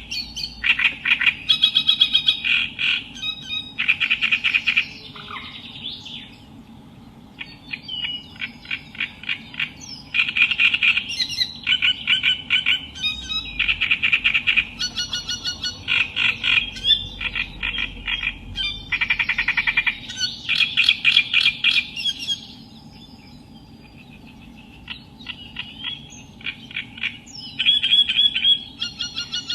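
Reed warbler singing: long runs of rapid, harsh, croaking and chattering notes, broken by a few short pauses, over a steady low hum.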